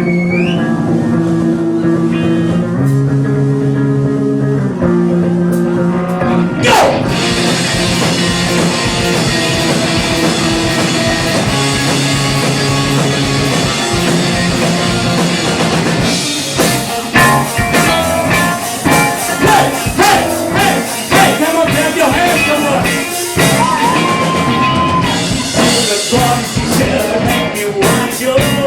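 Rock band playing live: sustained electric guitar chords for the first several seconds, then a rising slide leads the full band in with drums about seven seconds in, the drumming getting busier and denser from about halfway.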